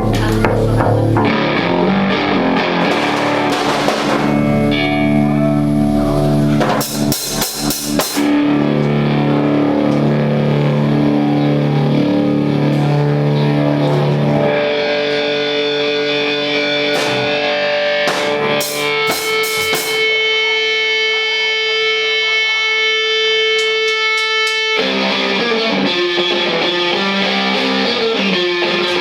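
A live rock band playing, with distorted electric guitar over bass and drums. About halfway through, the low end drops out and a single guitar note is held for roughly ten seconds, before the full band comes back in near the end.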